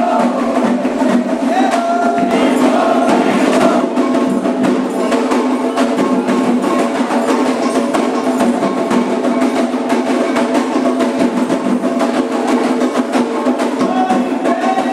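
Candomblé ritual music: atabaque hand drums beating a fast, dense rhythm with a struck bell or wood-block-like click, under sung lines from a group of voices.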